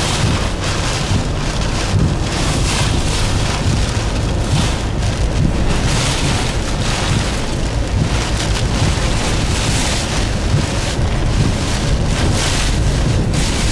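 Hurricane-force eyewall wind roaring in gusts that swell and ease every second or two, with heavy low buffeting of wind on the microphone.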